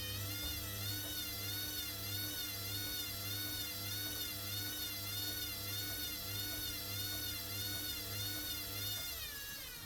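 Hoover washing machine's drum motor whining during the spin, its pitch wavering up and down about twice a second. Near the end the pitch drops and the sound fades as the spin slows.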